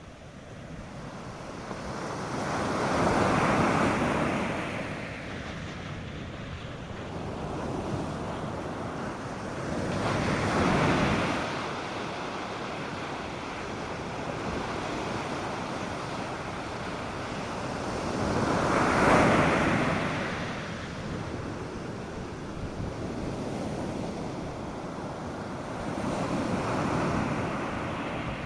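North Sea surf breaking on a sandy beach: a steady wash with four louder breaking waves, the third the loudest, and light wind on the microphone.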